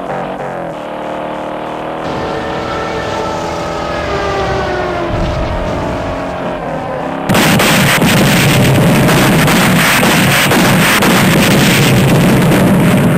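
Car engine heard from inside the cabin, its pitch rising and falling with speed and gear changes. About seven seconds in, the sound cuts suddenly to much louder, harsher engine and road noise.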